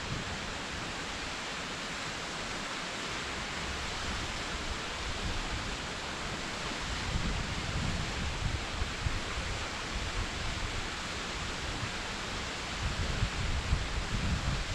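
Waterfall rushing in a steady, even hiss, with gusts of wind buffeting the microphone in low rumbles, heavier about halfway through and again near the end.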